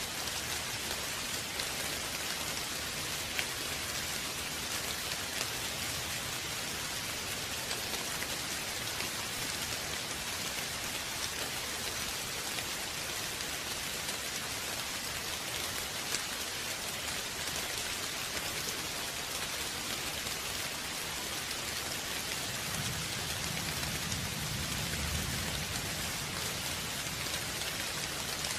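Steady rain falling on a surface, with individual drops pattering. A low rumble of distant thunder comes in near the end.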